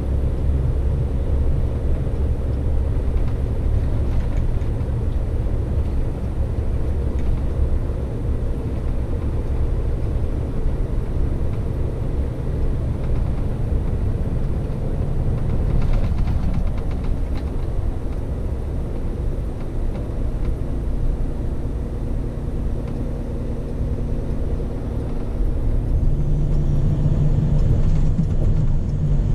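Scania P400 truck's diesel engine running steadily with a low rumble as the truck works. Near the end the engine note rises and grows a little louder.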